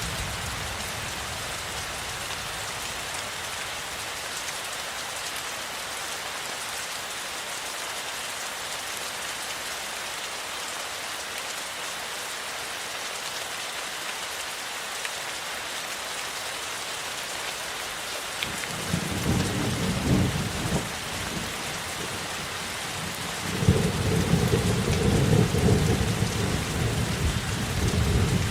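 Steady rain falling in a thunderstorm, with thunder rumbling twice: a shorter rumble about two-thirds of the way in, then a louder, longer one near the end.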